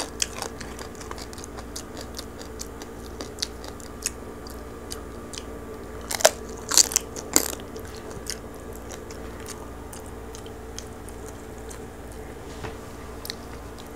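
Close-up crunchy chewing of crispy roast pig's ear (lechon): scattered sharp crackling crunches, with a louder run of crunches about six to seven and a half seconds in, over a steady low hum.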